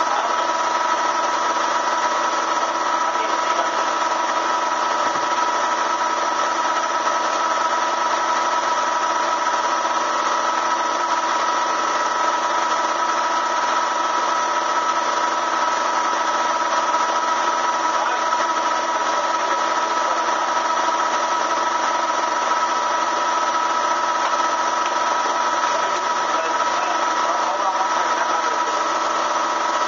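Bee vacuum's motor running steadily with a high whine over a rushing hiss, sucking bees out of the wall cavity.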